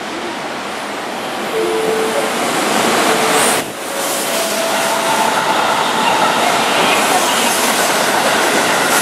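Keihan 3000-series electric train running alongside the platform close by: steady rail and wheel noise that grows louder about one and a half seconds in, with faint whining tones over the rumble.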